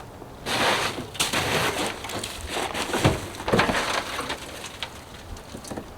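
Snow crunching and scraping in a series of irregular crunches, as snow is worked or trodden on.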